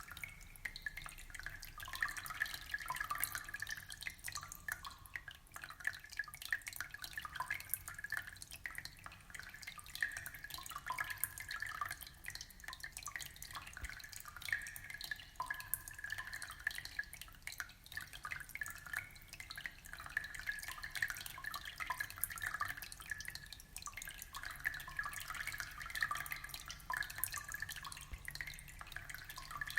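Aquarium water trickling steadily, with a dense patter of small drips and splashes.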